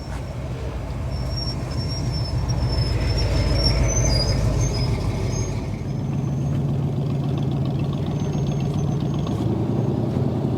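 A motor vehicle's engine running close by, a steady low hum that grows louder over the first four seconds and then holds. A faint high, wavering whine sits over it in the first half.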